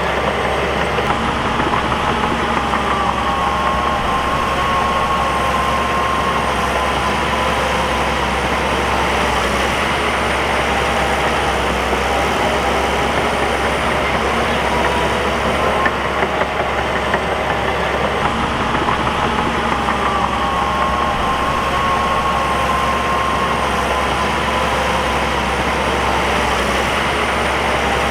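Bulldozer's diesel engine running steadily at work, with a whining tone that sinks in pitch twice, about three seconds in and again about nineteen seconds in.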